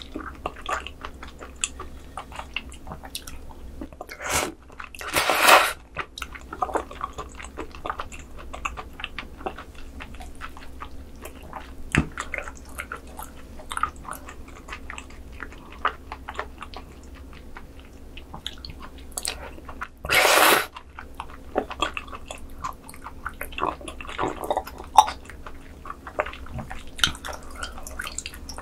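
Close-miked wet chewing of slippery raw squid sashimi strands in sea cucumber intestine sauce, with many small sticky mouth clicks and smacks. Two louder, longer sounds, each under a second, come about five seconds in and about twenty seconds in.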